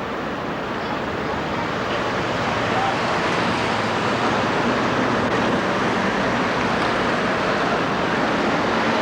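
Steady rushing street traffic noise that swells slightly over the first few seconds and then holds.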